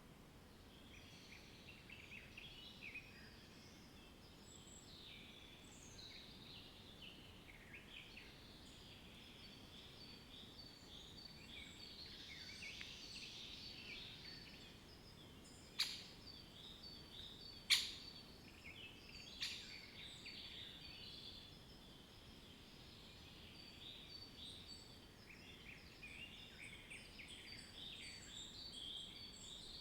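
Many small birds chirping and trilling, faint, with three sharp clicks in the middle, a couple of seconds apart, which are the loudest sounds.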